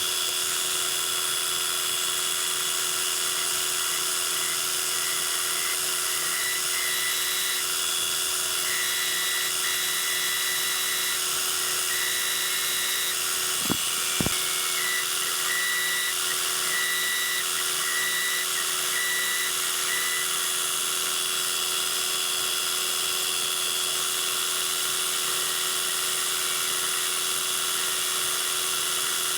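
Metal lathe running steadily with a high-pitched motor whine. Between about six and twenty seconds in, a higher tone comes and goes in short stretches, and there are two sharp clicks near the middle.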